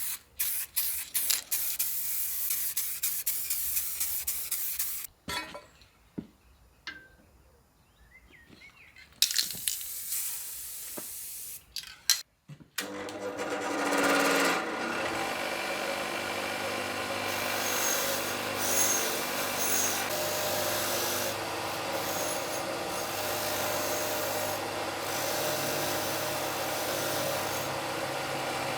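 Workshop tool work on a metal gear stick: scattered clicks and short scraping sounds, then from about thirteen seconds in a motor-driven tool running steadily with a continuous rubbing sound.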